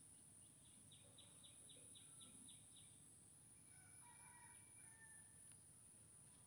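Near silence with faint bird calls in the background: a quick run of about nine chirps, roughly four a second, then a few short whistled notes a little later, over a steady faint high hiss.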